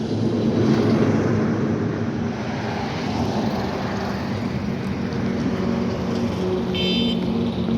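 Steady noise of highway traffic, vehicles running past with a low engine hum, and a brief high-pitched tone about seven seconds in.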